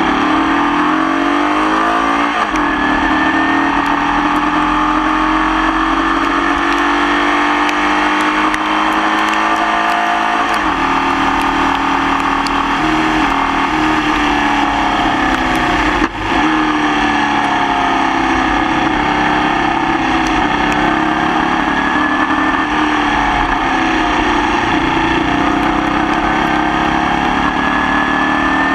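Formula Vee racing car's air-cooled Volkswagen flat-four engine heard onboard under hard driving, its note climbing and falling several times with gear changes and lifts, including a sharp dip about sixteen seconds in. The engine is running with a misfire that lasted the whole race.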